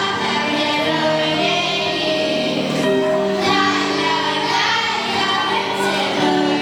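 Children's choir singing, holding long notes in several parts at once.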